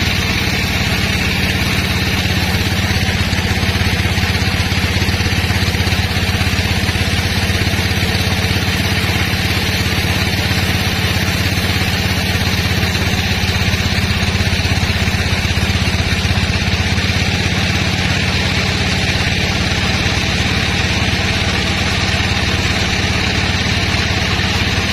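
Sawmill machinery running steadily: a constant engine or motor hum with a hissing band above it, unbroken throughout.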